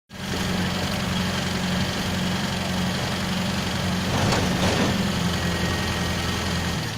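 Heavy diesel engine running steadily, with a brief rush of noise about four and a half seconds in.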